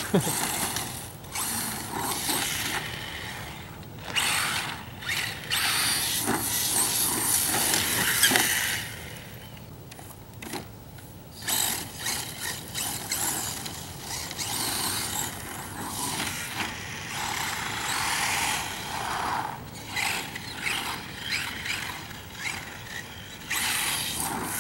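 Battery-electric 1/10-scale 4WD RC short course truck driving over a lawn: high motor whine and tyre noise rising and falling in bursts with the throttle, easing off for a couple of seconds about nine seconds in.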